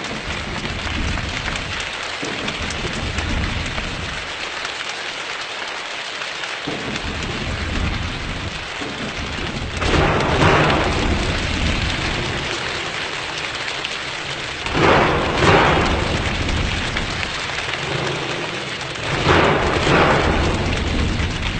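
Steady heavy rain hissing, with three louder surges lasting a second or two each: about halfway through, a few seconds later, and near the end.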